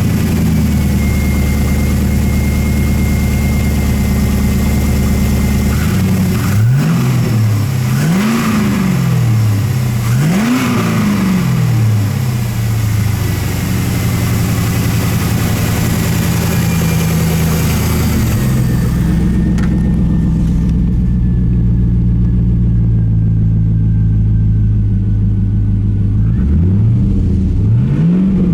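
2001 Pontiac Trans Am's 5.7-litre LS1 V8 running just after starting: a fast, steady idle, three quick revs about seven to eleven seconds in, then a lower idle, and one more rev near the end.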